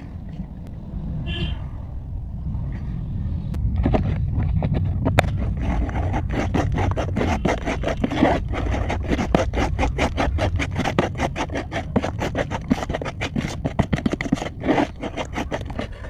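Dense crunching and crackling, many sharp crackles a second, starting about four seconds in, over a low steady rumble.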